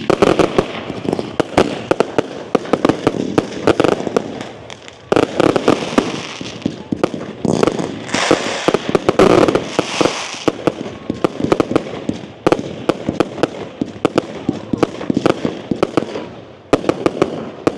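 Firework display going off: a dense, rapid run of bangs and crackles with brief lulls.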